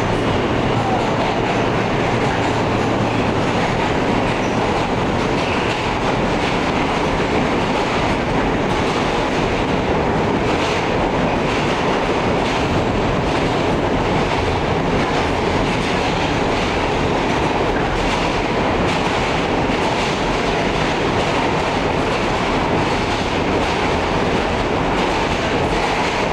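Alstom R160A subway car running through the tunnel, heard from inside the car: a steady, loud rumble of steel wheels on the rails with faint clicks from the rail joints.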